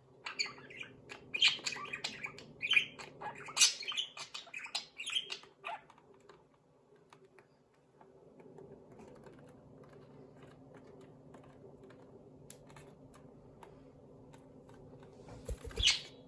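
Budgies chirping and chattering in quick clicky bursts for about six seconds, then going quiet over a steady low hum with a few faint clicks. Near the end a single sudden loud burst with a low thump.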